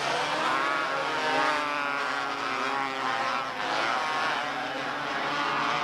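Engines of several small race cars (quarter midgets or mini sprints) running together on the track, their pitches rising and falling as they rev and pass.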